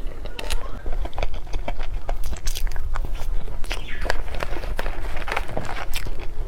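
Close-up eating sounds of someone chewing cake: many short, irregular mouth clicks and smacks.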